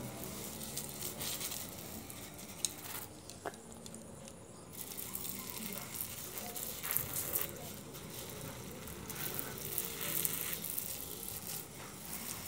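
Hand-pumped pressure sprayer hissing out a fine water spray in several bursts, with water pattering as a lovebird is soaked. The spray pauses briefly a few seconds in, then resumes more strongly.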